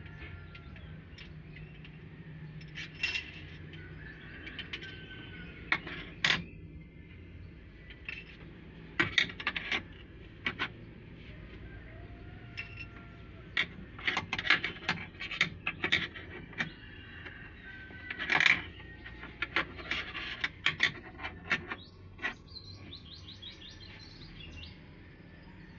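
Irregular light metallic clinks and clicks of tools and metal parts being handled, some single and some in quick clusters, over a steady low hum.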